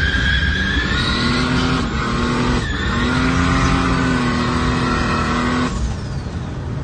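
Turbocharged BMW M50 straight-six in an E36 drift car running at fairly steady high revs through a straight-piped exhaust, the revs dipping briefly twice near the middle and easing off near the end.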